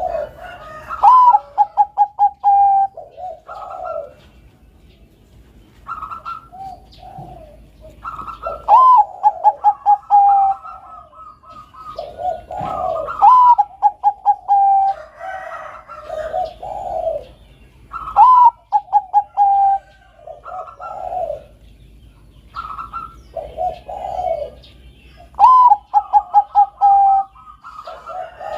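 Bangkok-type zebra dove (perkutut) singing its cooing song over and over, about six phrases, one every four to five seconds. Each phrase is a rising note followed by a quick run of short pulsed notes and lower coos.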